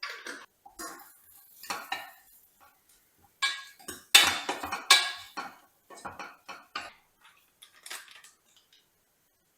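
Dishes and cutlery clattering and clinking in a run of separate knocks, loudest and busiest about midway.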